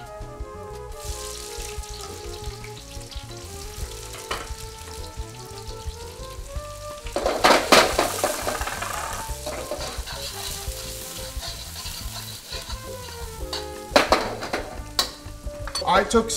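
Shrimp, scallions and chili sizzling and frying in a hot wok, with a loud surge of sizzling about seven seconds in as food goes into the pan, and a few sharp knocks of the wok near the end. Soft background music plays underneath.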